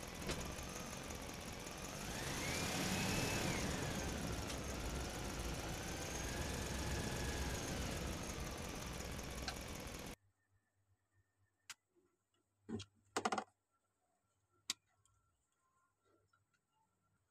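A steady engine drone with a whine that rises and then falls. It cuts off suddenly about ten seconds in, leaving near silence broken by a few sharp clicks.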